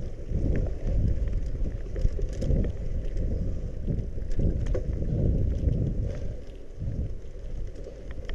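Bicycle being ridden on a muddy trail: rumbling, gusting wind buffeting on the microphone, with tyre noise and scattered light clicks and rattles.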